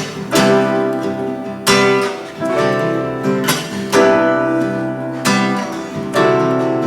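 Acoustic guitar strumming chords in an instrumental passage of a live song, with a new strum roughly every second.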